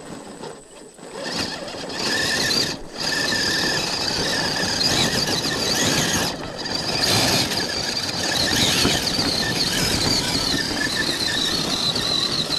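Redcat Gen8 V2 RC crawler truck driving, its electric motor and drivetrain giving a steady high-pitched whine over a broad rushing noise. The sound starts about a second in and drops out briefly twice, around three and six seconds in.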